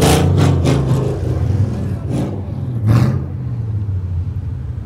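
A 4x4's engine running and revving, with several short, loud rushes of noise in the first second and again twice more around the middle.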